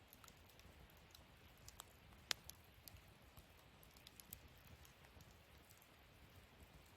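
Wood fire in a fire stand crackling faintly, with scattered small pops and one sharper pop a little over two seconds in.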